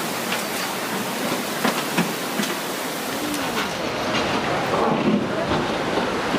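Fast-flowing floodwater of a river in strong current, a steady rushing noise, with a few faint voices and knocks over it.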